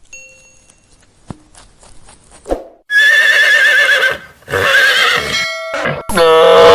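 Animal calls: faint scattered knocks for the first couple of seconds, then two loud quavering calls, then another call that starts low and rises in pitch near the end.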